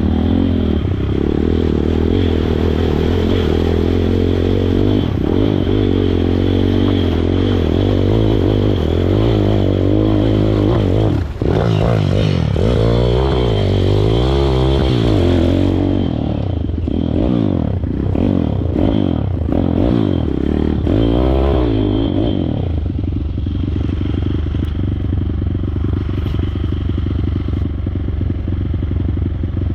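Pitbike's small single-cylinder engine running loud off-road, the revs rising and falling over and over through the middle, then holding a steadier note near the end.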